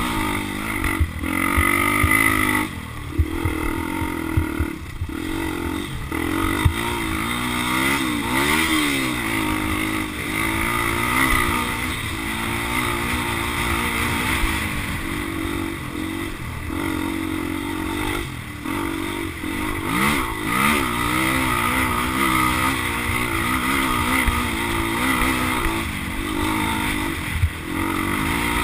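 Motocross dirt bike engine running hard as it is ridden, its pitch rising and falling with the throttle, with brief dips every few seconds.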